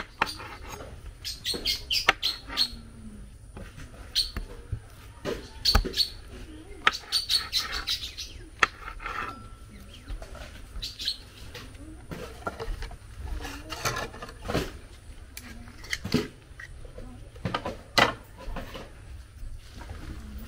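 Birds chirping, with scattered sharp taps and clicks as a pizza-cutter wheel is pressed through soft dough onto a hard tabletop.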